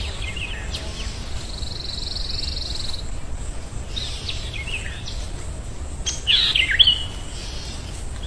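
Songbirds chirping and calling in short, scattered phrases, with a buzzy trill about two seconds in and the loudest calls near the end, over a steady low rumble.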